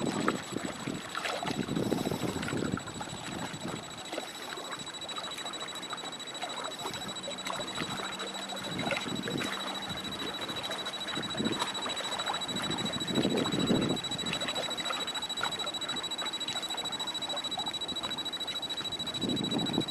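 Strong gusty wind buffeting the microphone over choppy water, with louder gusts about two seconds in, around thirteen seconds and near the end, under a thin steady high-pitched whine.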